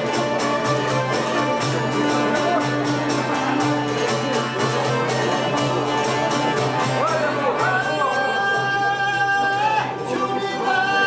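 Albanian folk song recording: the band plays a quick steady beat of about four strokes a second. From about seven seconds in, a high melody of long held notes with sliding onsets comes in over it.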